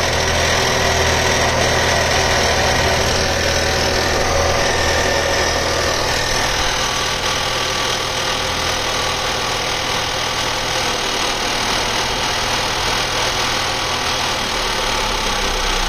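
Volvo V60 B5's 2.0-litre four-cylinder petrol engine running, with a rattle on top of the engine note. The owner traces the rattle to somewhere around the fuel pipe and says it gets louder with higher rpm.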